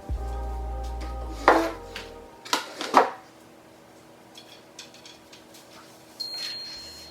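Background music with a steady bass that stops about two seconds in, over three loud clatters of dishes and pots, then quieter faint clinks and knocks of dishware being handled.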